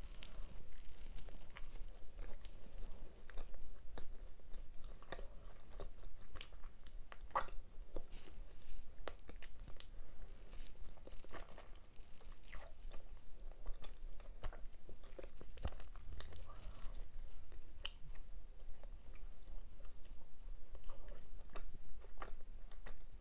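Close-miked eating sounds: a person chewing and biting food, with wet mouth clicks and smacks, as in a mukbang of cheesy beef Alfredo with bacon and cheese buns.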